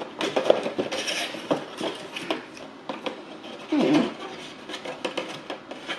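Cardboard and paper fast-food packaging being handled at close range: irregular rustling, tapping and light knocks, with a louder burst of handling about four seconds in.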